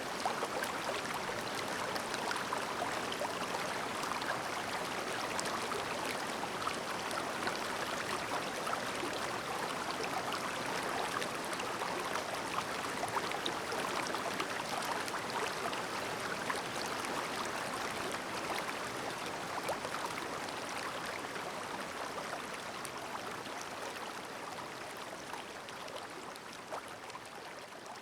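Shallow, clear mountain stream babbling: a steady rush of water with fine splashing that fades down over the last few seconds.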